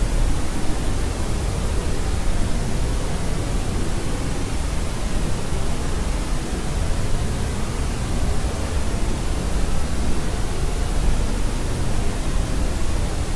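Steady white noise used as a baby sleep aid, an even hiss heavier in the low end, with no changes in level or pitch.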